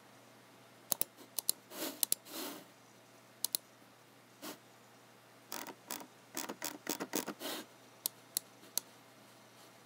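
Computer mouse clicks and keyboard keys being pressed at an irregular pace. Sharp single clicks are mixed with a few short, softer sliding noises, and there is a quick run of them from about five and a half to seven and a half seconds in.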